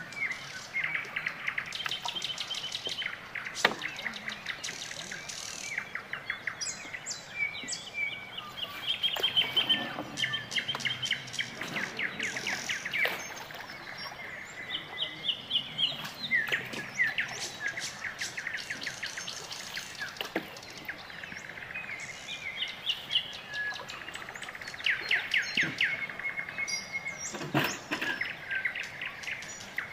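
Small birds chirping and trilling, in quick runs of repeated high notes one after another, with a few sharp knocks in between.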